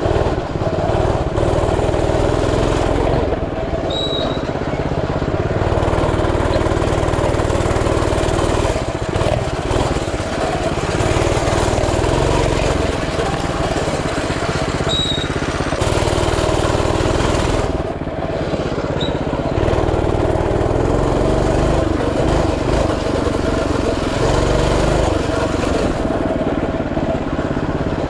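Coleman CT200U mini bike's small single-cylinder four-stroke engine running while ridden, its pitch and level rising and falling every few seconds as the throttle is worked.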